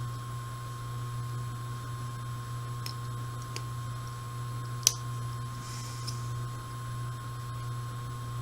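A few small sharp clicks of pistol parts being fitted into a Smith & Wesson M&P 45 frame, the loudest about five seconds in. Under them runs a steady low hum and a constant high-pitched whine from a washing machine running nearby.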